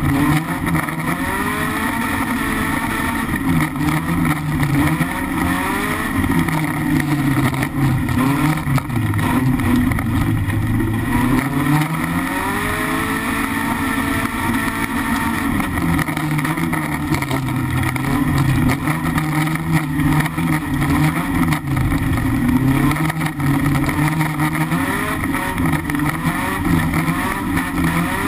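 BMW E36 318iS race car's four-cylinder engine under hard driving, heard from inside the stripped cabin: the revs climb and drop again and again as the driver accelerates and lifts, with deep dips about six, eleven and sixteen seconds in.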